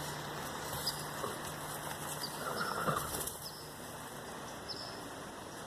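An animal rolling in dirt: scuffling and rustling over a steady hiss, loudest between about two and a half and three and a half seconds in.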